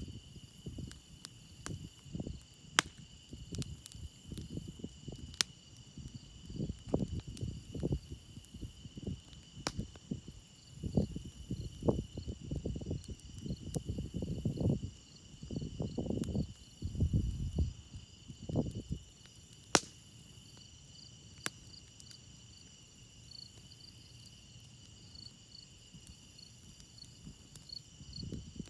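Crickets chirping in a steady high chorus, with occasional sharp pops from a crackling wood campfire. Irregular low rumbling bursts run underneath through the first two-thirds and stop about 19 seconds in.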